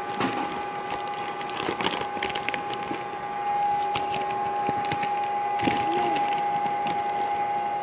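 Milling machine spindle motor running with a steady whine while a drill bit cuts into metal, with irregular crackling and ticking from the cut.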